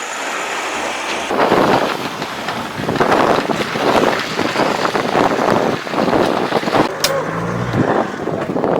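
A vehicle on the move, with gusts of wind buffeting the microphone in irregular surges.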